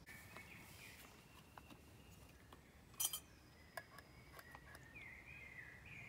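Faint birdsong in woodland, with one short clink about three seconds in and a few lighter ticks.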